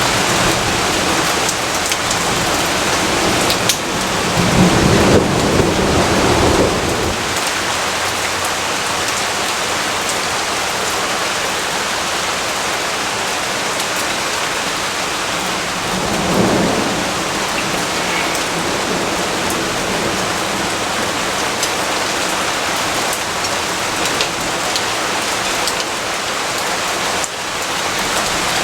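Steady rain falling, with thunder rumbling twice: a longer roll about four seconds in and a shorter one a little past halfway.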